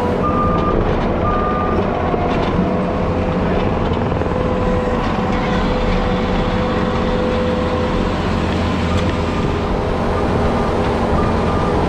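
A diesel grading machine runs steadily under load. Its backup alarm beeps in short repeated tones during the first couple of seconds and again near the end.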